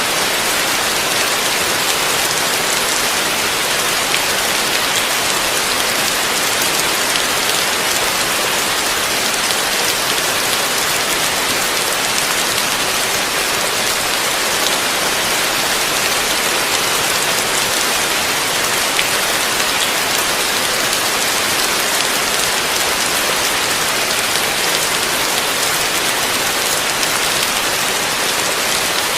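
Heavy rain falling steadily, an even hiss with no thunder or breaks.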